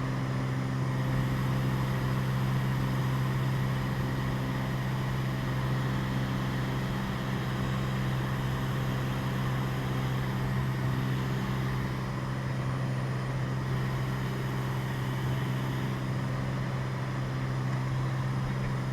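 Cessna 206 Stationair's single piston engine and propeller droning steadily during the climb after takeoff: an even, unchanging low hum.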